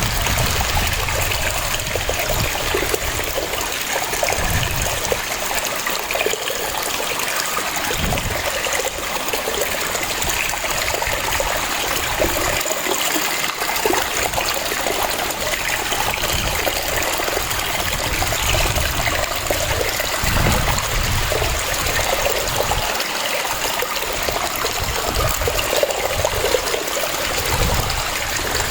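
Waterfall: water cascading and splashing in a steady rush, its low rumble swelling and easing every few seconds.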